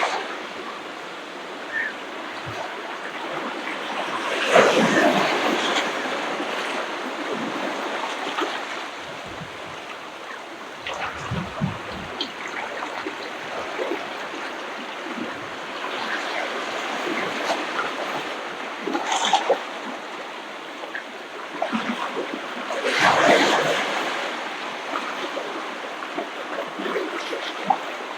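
Ocean waves breaking on a beach and washing up the shore: a steady wash of surf, with a louder break about five seconds in and another about five seconds before the end.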